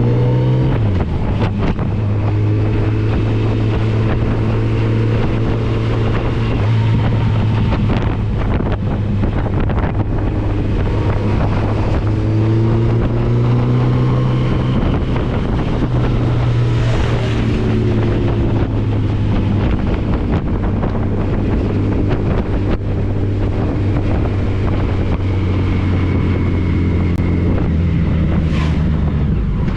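Motorcycle engine running under way, its note rising and falling a few times, with heavy wind buffeting on the microphone.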